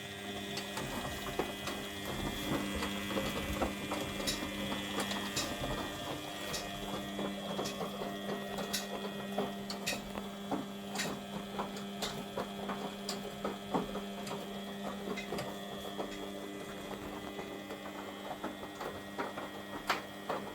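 Front-loading washing machine running mid-wash with its covers off: a steady motor hum with a few constant tones, scattered with irregular clicks and ticks as the drum turns the wet load.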